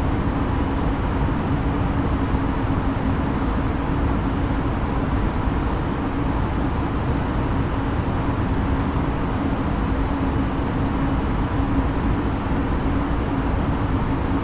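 Steady in-flight cabin noise of an Airbus A320neo: engine and airflow rumble with a steady hum running through it.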